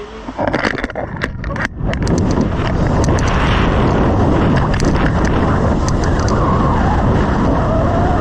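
Heavy wind noise buffeting the microphone, a loud steady rush with a few brief dips and crackles in the first two seconds.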